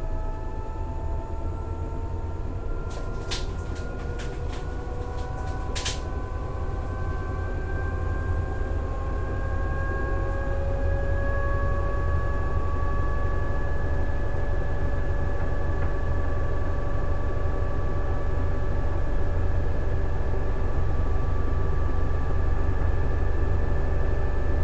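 Toshiba ZABOON AW-7D9 washing machine's inverter-driven direct-drive multi-pole motor whining during the spin cycle, the pitch slowly rising as the drum gathers speed. The high-pitched whine comes from the high-frequency motor current at spin speed. A few sharp clicks sound a few seconds in.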